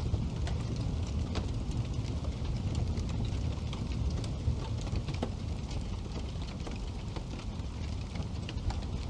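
Wood fire burning in a fireplace: a steady low rumble with frequent small, irregular crackles and pops from the burning logs.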